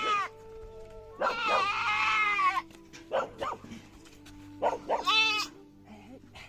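Goats bleating: a long quavering bleat about a second in, and a second shorter one near five seconds.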